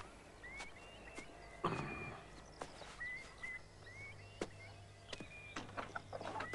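Faint countryside ambience: a small bird chirping now and then, with scattered light footsteps and a short rustle about two seconds in.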